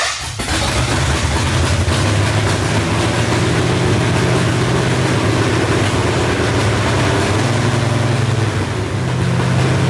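Freshly swapped 333 stroker V8 in a Ford Bronco catching on its first start and running loud and steady, its note shifting briefly a little before the end.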